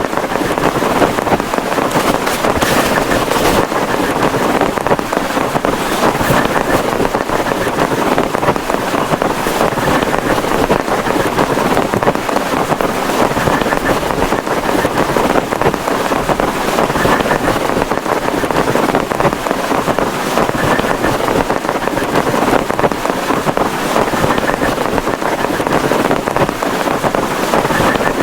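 Heavy rain pouring steadily in strong wind: a loud, dense, even hiss that does not let up.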